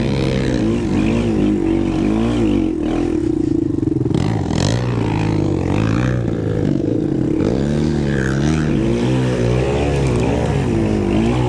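Racing quad's engine running hard, its pitch rising and falling again and again as the throttle is worked on and off.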